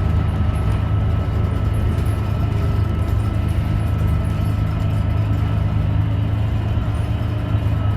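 Interior of a 2017 New Flyer XDE40 diesel-electric hybrid bus under way: a steady low drone from the drivetrain and road, with a faint steady high whine above it.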